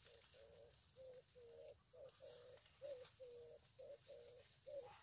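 Faint bird call: a steady run of short cooing notes, about two or three a second, some wavering in pitch, over a faint hiss of rain.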